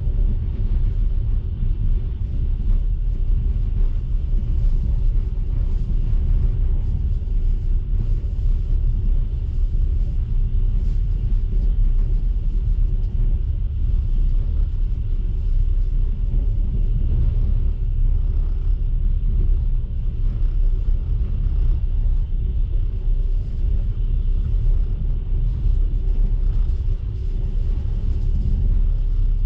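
Steady low rumble inside a moving passenger train carriage: the coach's wheels running on the rails at speed.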